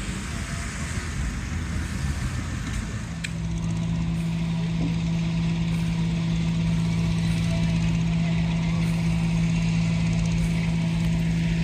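An engine running steadily. A low, even hum comes in about three seconds in and holds, slightly louder from then on.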